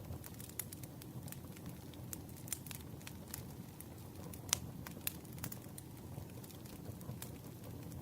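Campfire crackling: a steady low rumble of burning wood with irregular sharp pops and snaps, one louder pop about halfway through.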